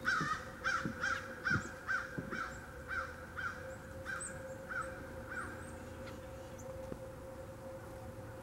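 A rapid series of harsh, caw-like bird calls, about two a second, fading out after about five seconds. A few faint high chirps come in over them, and a faint steady hum runs underneath.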